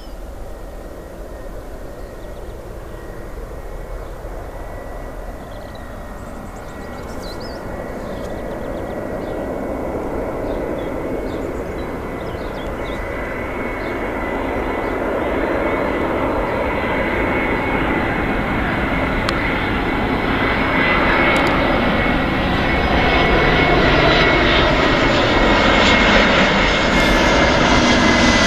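Airbus A320-200 jet engines on approach, growing steadily louder as the airliner comes in, with a steady high whine over the engine noise that drops slightly in pitch near the end.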